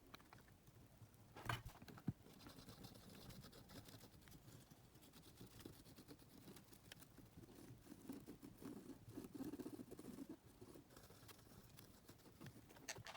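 Faint rubbing and light clicks of hand work on a small electronic device, with a sharper knock about one and a half seconds in and the rubbing a little louder past the middle.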